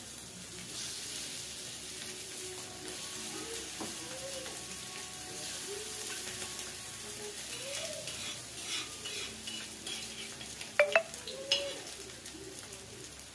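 Potato tikkis sizzling steadily in desi ghee on a tawa, with a few sharp clicks of a metal spatula against the pan about eleven seconds in. A pigeon coos faintly in the background.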